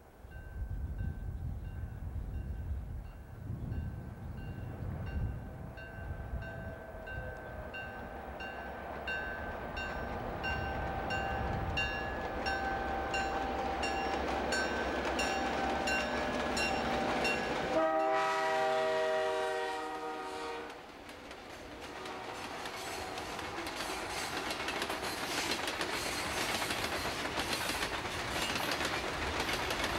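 EMD GP9 diesel locomotives, 16-cylinder 567 engines, working under load with a bell ringing in a steady beat. About 18 seconds in the horn sounds for about three seconds, then loaded hopper cars clatter past on the rails.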